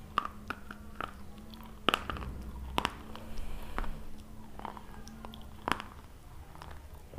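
Close-up chewing with sharp crunches, the loudest about 2 and 3 seconds in and again near 6 seconds.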